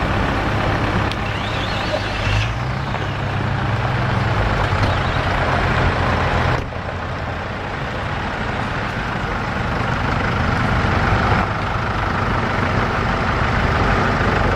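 Jeep engines running steadily at low revs, with a steady low hum under a broad noise. The sound changes abruptly about six and a half seconds in.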